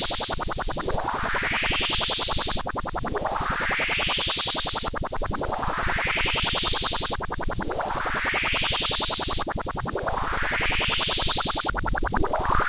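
Buzzy Eurorack synth tone through a Patching Panda Vibrazum Mk2 resonant filter, its cutoff modulated so the resonant peak sweeps upward again and again, roughly every two seconds, giving a repeated rising 'wow' sound.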